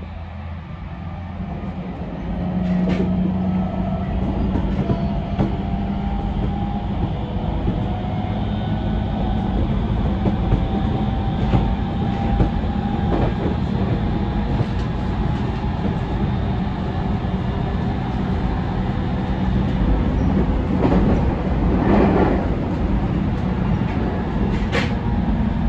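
JR East 701 series electric train running on the rails, heard from inside the passenger car: a steady low rumble of wheels on track with a motor hum. It grows louder over the first few seconds, then holds steady, with occasional short knocks.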